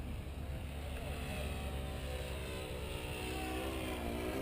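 Electric motors and propellers of a HobbyKing 1875mm four-engine B-17 R/C model buzzing in flight, their pitch dipping and then rising again near the end, over a low wind rumble on the microphone.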